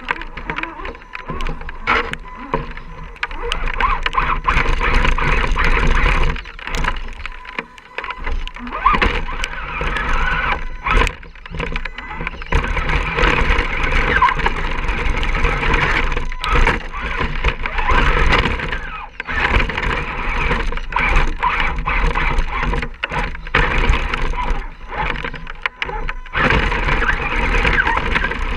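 Radio-controlled scale rock crawler driving over rough ground: its electric drive gives a whine that rises and falls as the throttle changes, over frequent clacks and knocks of tyres and chassis on rock.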